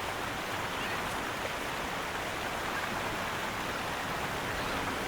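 Steady rush of flowing water, an even hiss with no distinct splashes.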